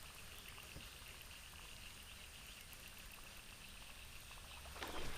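Quiet outdoor river ambience with a faint steady high-pitched hum and light ticking. Shortly before the end comes one brief louder whoosh.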